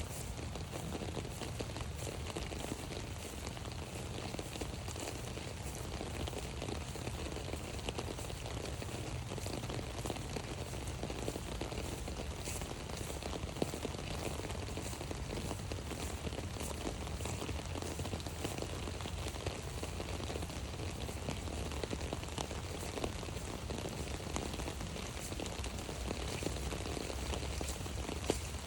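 Steady rain pattering on an umbrella overhead, many fine drop ticks over a continuous hiss.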